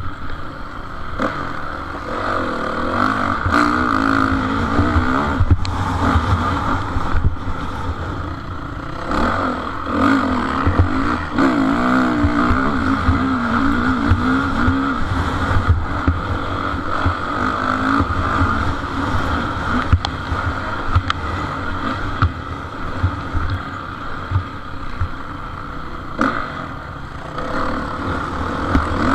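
Motocross bikes racing, their engines revving up and falling back again and again as they work round the track, over a steady low rumble.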